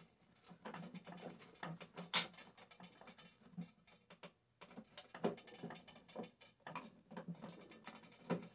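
Irregular clicks, taps and scrapes from tools and metal parts being handled while a microwave is taken apart, with a short lull about halfway through.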